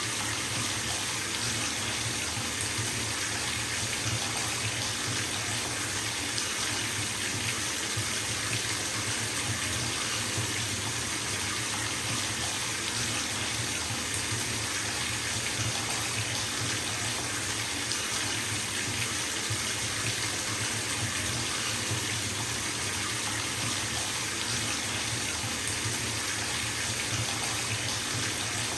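Bathtub filling from a running tap: water pouring steadily into the tub, an even, unbroken rush.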